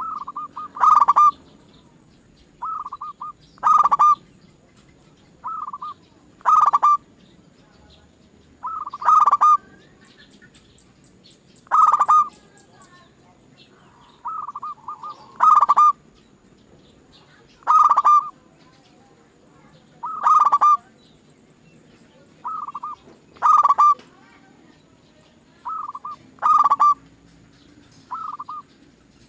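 Zebra dove (perkutut) cooing: the same short phrase repeated every two and a half to three seconds, each a softer opening note followed by a louder run of notes.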